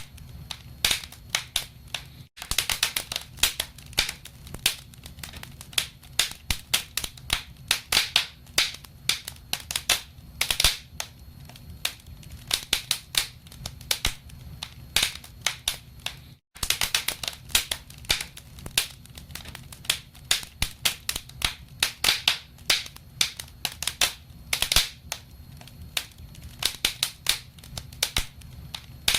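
Wood fire crackling in a fireplace: a dense, irregular stream of sharp pops and snaps over a low steady rumble of the flames, broken twice by a momentary cut to silence.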